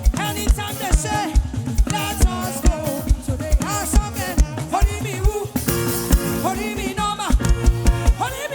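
Live gospel praise music: a singer's voice over a band, with a steady kick-drum beat of about two strikes a second.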